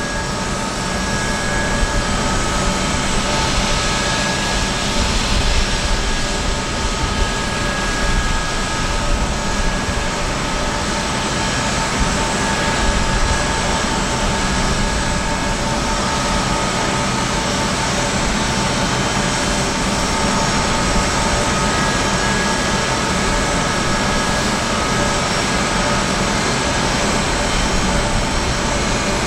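Boeing C-17 Globemaster III's Pratt & Whitney F117 turbofans running steadily: an even jet hiss with several steady whining tones over it.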